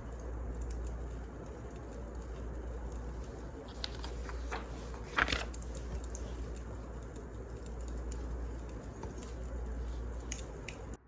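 Wood fire crackling, with scattered small pops and one louder crackle about five seconds in, over a steady low hum; it cuts off suddenly near the end.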